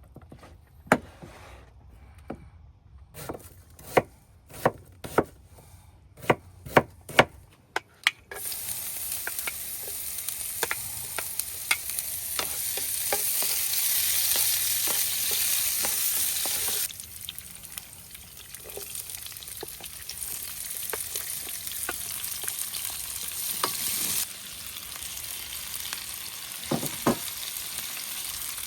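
A series of sharp, irregular knocks, then food hitting hot oil about 8 seconds in and sizzling loudly in a pan. The sizzle eases off partway through and grows again near the end, with small scrapes and clicks of stirring.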